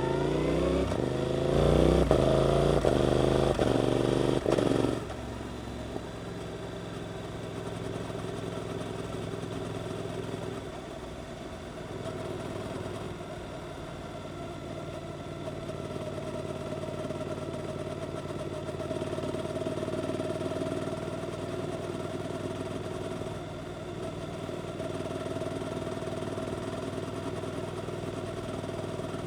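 Suzuki GSX-8S parallel-twin engine through an Arrow aftermarket exhaust, accelerating hard in rising surges of revs for about five seconds. It then drops off sharply as the throttle closes and runs on at lower, steadier revs.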